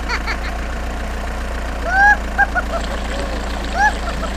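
Steady low engine idling drone from a mini tractor, with a few short squeaky rising-and-falling calls: one about two seconds in, two quick ones after it, and another near the end.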